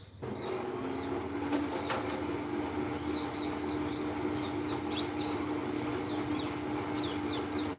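A steady mechanical hum with one held low tone under a noisy rush, starting suddenly, with small birds chirping over it from a few seconds in.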